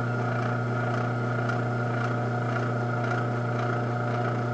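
LiftMaster 8164W garage door opener's AC motor running steadily with a low hum, raising the door while the up button is held to set the open travel limit.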